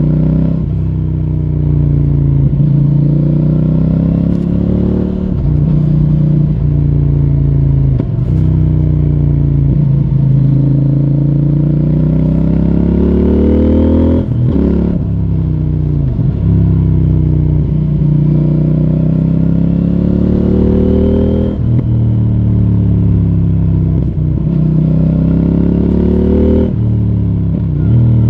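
CFMOTO 800NK Advanced's parallel-twin engine through its stock exhaust, pulling through the revs. Its pitch climbs steadily and then drops sharply several times, about every five to seven seconds, as it comes off the throttle or changes gear.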